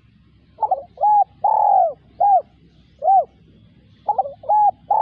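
Spotted dove cooing: a phrase of about five hollow, arched coos, the third one longest, which starts again about four seconds in.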